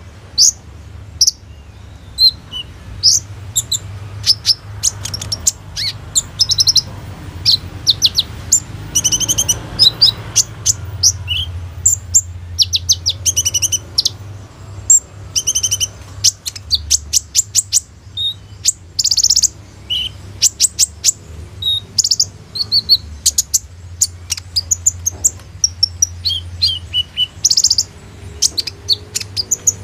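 Kolibri ninja (konin) sunbird singing hard: a long run of sharp, very high chirps and fast rattling trills in quick phrases with short pauses, a busy song with mimicked phrases of other birds. A steady low hum runs underneath.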